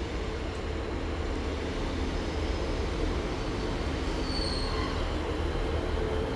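Diesel multiple unit, a Class 150 Sprinter coupled with a Class 143 Pacer, running into the station with a steady low engine hum. A short high squeal comes about four seconds in.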